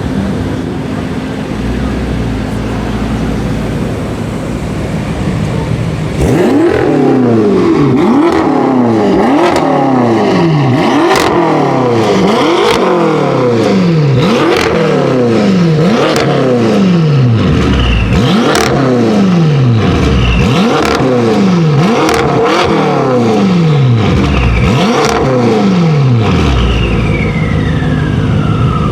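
BMW M5 F10's twin-turbo V8 through an Akrapovic exhaust, idling, then blipped in a quick run of about fifteen revs, each rising and falling in pitch, with sharp cracks among them, before settling back to idle near the end.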